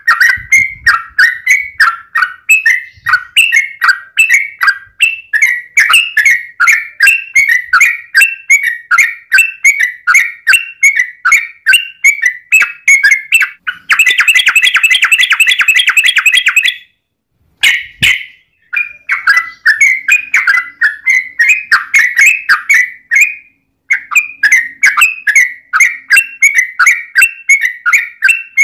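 Yellow-vented bulbul (trucukan) singing a rapid, unbroken run of short chirping notes, about four a second, with a faster, denser trill about halfway through. Brief breaks interrupt it, one with a single click.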